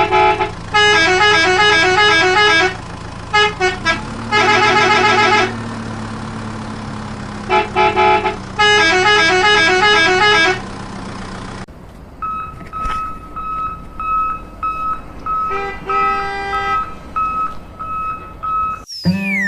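Electronic sound effects of a battery toy vehicle: a steady engine-like hum, stepping up in pitch about four seconds in, under repeated bursts of fast beeping horn tones. About twelve seconds in the sound changes to short beeps about twice a second, and a falling whistle comes at the very end.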